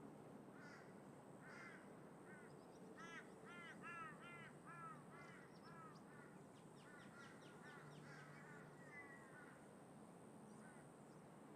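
Crows cawing: a run of harsh calls, several in quick succession a few seconds in, then more scattered ones that die away near the end. They are faint, over a steady background rush of wind and distant traffic.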